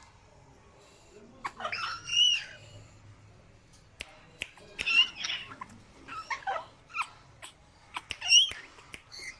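Caged pet birds squawking in a string of short, harsh calls, with several sharp clicks between them.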